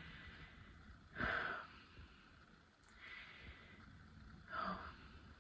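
A woman breathing out heavily twice, about a second in and again near the end, between whispered remarks.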